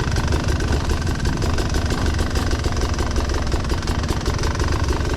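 Enduro motorcycle engine running steadily, its firing heard as fast, even pulses.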